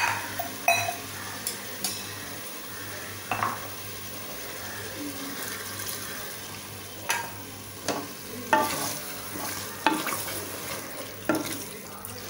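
Chicken frying in masala in a pot, with a steady sizzle, while a thin stream of water is poured in and a spoon stirs. There are several sharp scrapes of the spoon against the pot in the second half.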